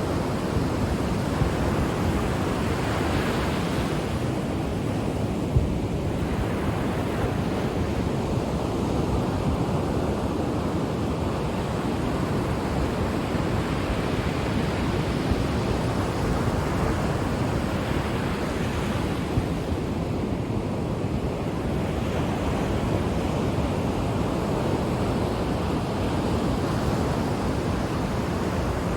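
Ocean waves breaking and washing up the shore: a continuous rushing surf that swells and ebbs about every six seconds.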